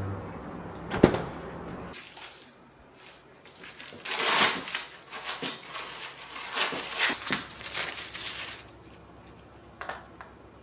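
A single sharp knock about a second in, then several seconds of irregular rustling and scraping from something being handled, dying away near the end.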